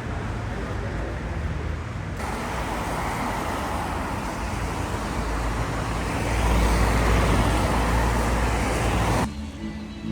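City street traffic passing, with a vehicle going by close and loudest about six to nine seconds in. The sound cuts off suddenly a little after nine seconds.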